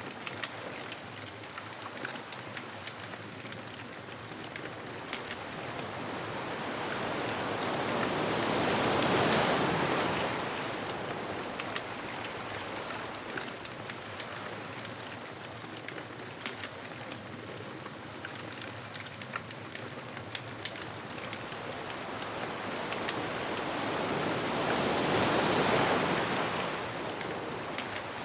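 Ocean surf on a beach: two waves build, break and wash back, about fifteen seconds apart, over a steady wash of water. Small crackles from a bonfire tick through it.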